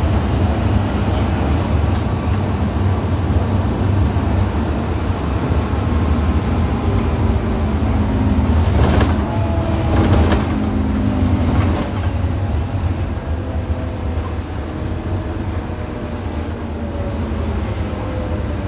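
Scania N230UD OmniCity double-decker bus's five-cylinder diesel engine running under way, a heavy low drone with a faint whine that climbs in pitch and later falls away. A few brief rattles come about halfway through, and the engine note eases slightly after that.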